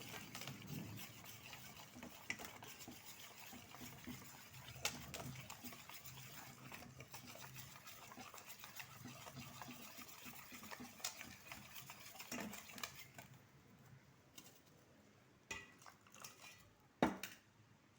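A flour-and-water batter being stirred in a bowl until it is semi-liquid: a steady, wet stirring with scattered clicks of the utensil against the bowl. It grows quieter near the end.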